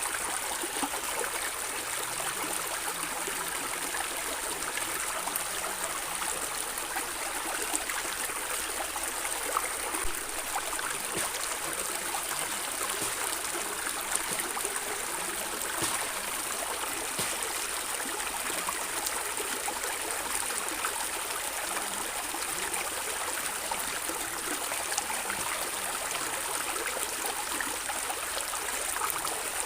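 Small stream running over stones, a steady rushing with bright splashing and trickling.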